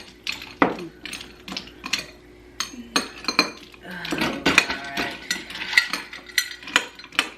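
Ice cubes clinking as they are dropped into a dish: a run of sharp, irregular clinks.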